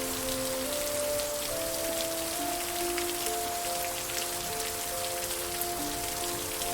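Steady rain with individual drops ticking, under slow, soft music of long held notes.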